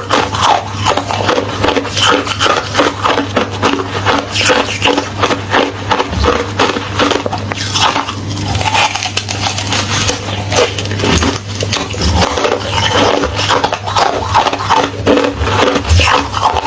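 Hollow ice being chewed and crunched close to the microphone: a dense, continuous run of sharp crackles and snaps over a steady low hum.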